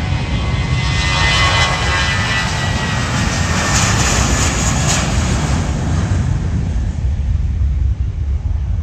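Airliner flying low past, a loud engine rush that swells over the first seconds, its tones falling slightly in pitch, then fades away, over a steady low rumble.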